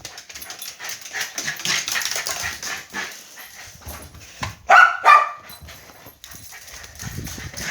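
A dog barks twice in quick succession about five seconds in, after a few seconds of scuffling, rustling noise.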